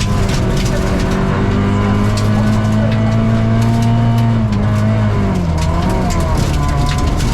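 Rally car engine running hard, its pitch climbing steadily, dropping about five seconds in, then climbing again, with many sharp clicks over it.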